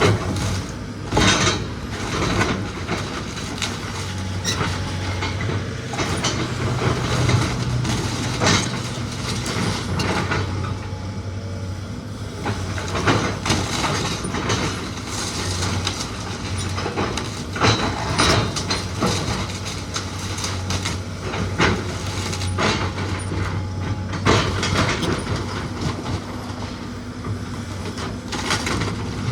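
Machine engine running steadily at a low hum while wood and debris crack, snap and clatter many times, some cracks sharp and loud: a house being torn down with heavy equipment.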